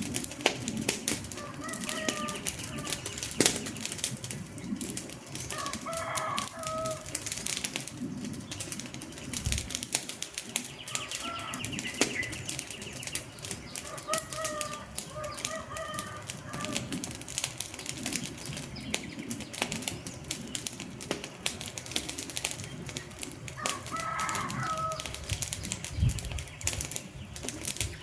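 Wood fire crackling, a dense run of sharp snaps and pops over a soft hiss. Short bird calls come in over it a few times.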